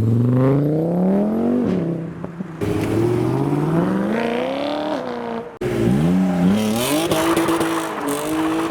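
A car engine accelerating hard, its pitch climbing in long sweeps three times with sudden drops between, then held at a steady rev near the end.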